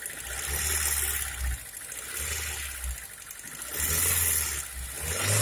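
Hyundai engine idling roughly, its sound swelling and fading about every second and a half. This is a limping, misfiring idle, which the mechanic puts down to a leaking ignition coil.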